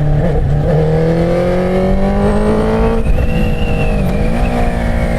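Inline-four motorcycle engine pulling under load, its pitch rising slowly for the first few seconds, dipping briefly about four seconds in, then holding steady, over a low rush of wind noise.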